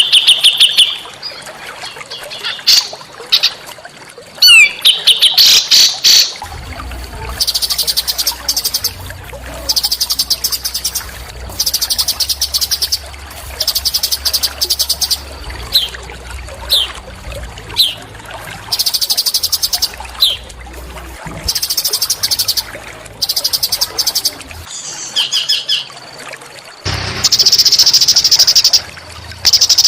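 A small songbird singing repeated rapid, buzzy trills, each about a second long, with short sharp downslurred chirps between them. A low hum runs underneath through the middle of the stretch.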